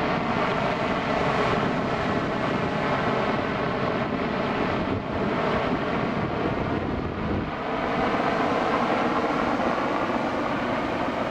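Helicopter turbine engines and rotor running steadily, with a humming tone in the noise that drops in pitch about seven and a half seconds in and then slowly climbs again.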